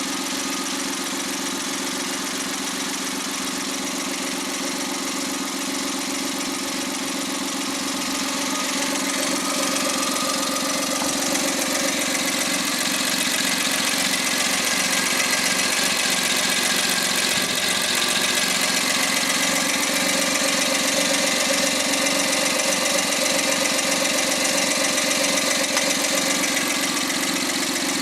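Rebuilt Suzuki K6A 660 cc three-cylinder turbo engine running steadily on a post-overhaul test run, getting a little louder about ten seconds in.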